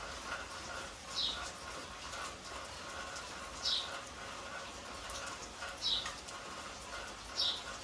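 A bird calling: a short, high note that falls in pitch, repeated four times about every two seconds over steady background noise.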